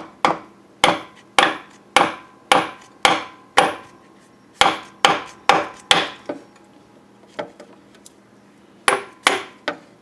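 Hammer blows on the end of another hammer's handle, tapping a new front crankshaft seal into the engine's front cover. Sharp taps about two a second in three runs with short pauses between, a few lighter taps in the gaps.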